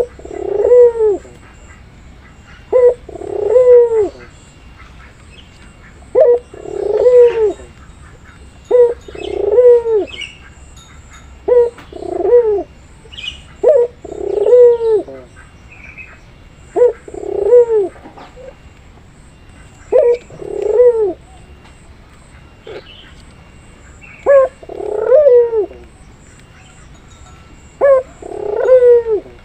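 Puter pelung (domestic ringneck or Barbary dove) cooing: about ten coos, one every two to four seconds, each a short note followed by a longer falling coo. Faint chirps from small birds sound between them.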